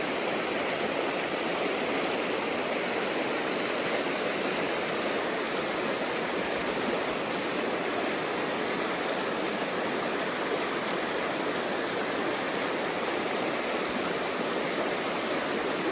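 A small creek's water rushing steadily over rocks.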